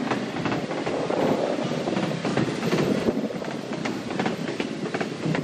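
Excursion train rolling along the track, heard from on board: a steady running noise with frequent sharp clicks and clatter from the wheels on the rails.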